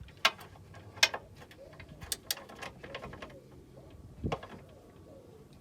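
Metal hand tools and parts clinking and knocking against each other in a handful of sharp, irregular clinks, the loudest near the start and about a second in, during work on a car's front suspension.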